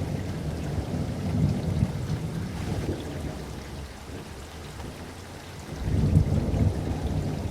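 Rainstorm with rolling thunder: steady rain with a deep low rumble that dies down in the middle and swells again about six seconds in.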